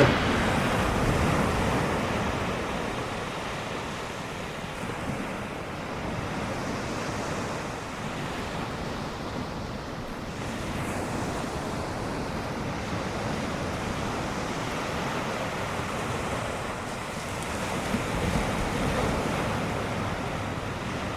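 Ocean surf breaking and washing ashore, with wind buffeting the microphone. The surf swells louder about a second in and again near the end.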